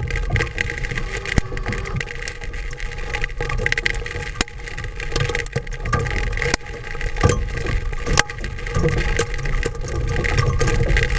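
Large hailstones, 2 to 2.5 inches across, striking a roof-mounted acrylic camera dome on a vehicle: sharp, irregular knocks over a steady hiss of heavy rain, with a low rumble underneath.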